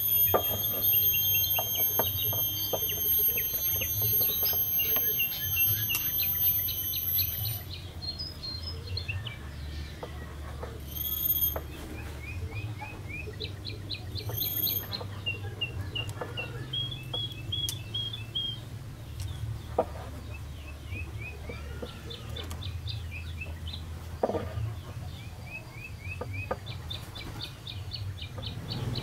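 Small birds chirping in repeated quick series of short notes. For the first quarter a steady high-pitched whine runs with them, then stops. A few sharp clicks come later.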